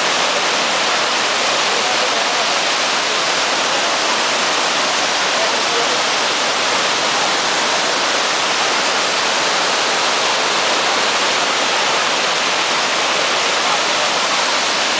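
Floodwater rushing: a loud, steady, even sound of fast-moving water that does not change.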